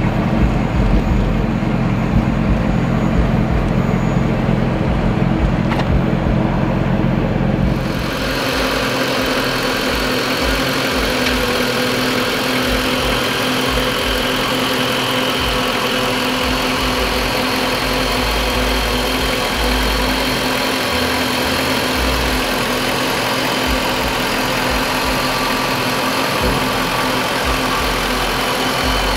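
1997 Ford Mustang GT's 4.6-litre V8 idling steadily. For the first eight seconds or so it is heard at the exhaust tailpipe, low-pitched and full. Then the sound switches to the engine bay, thinner, with a steady high-pitched whir from the running engine.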